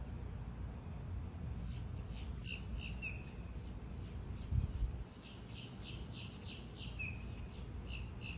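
A small bird calls in quick runs of sharp chirps, about three a second: a short run a couple of seconds in, then a longer one through the second half. A steady low rumble lies underneath, with a brief louder bump about halfway.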